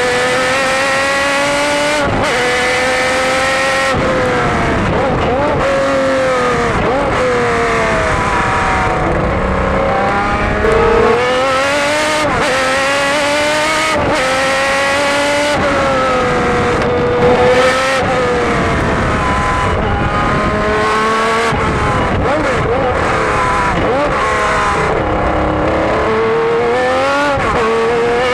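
Jaguar XJR-12 Group C race car's V12 engine, heard onboard, repeatedly revving up through the gears and easing off for corners, with brief breaks in the sound at the gear changes.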